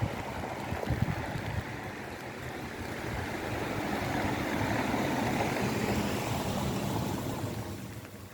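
Rain, with the hiss of tyres on a wet road as a vehicle passes: the noise swells to a peak about halfway through, with a faint engine hum, then fades away near the end.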